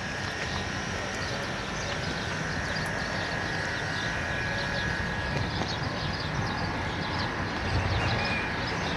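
Many small birds chirping throughout, over a constant low rumble and a steady high whine.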